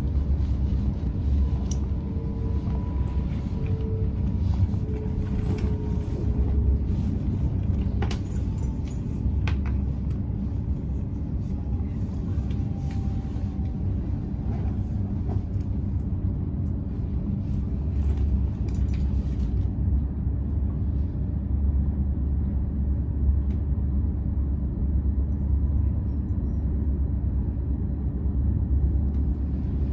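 Steady low rumble of a Greater Anglia Class 755 bi-mode train running under diesel power, heard inside the passenger cabin. A faint whine falls slowly in pitch, and a few short rattles or clicks come about eight to ten seconds in.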